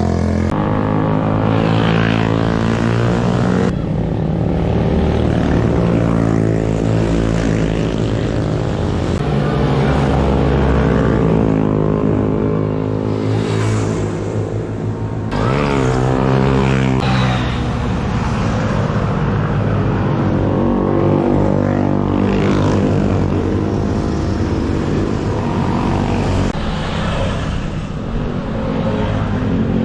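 Motorcycle engine running while under way, its pitch rising and falling with the throttle and gear changes, with wind noise over it. The sound changes abruptly a few times.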